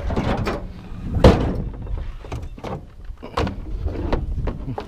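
Metal barbecue grill being lifted and handled, clanking and knocking, with one loud bang about a second in. Wind rumbles on the microphone underneath.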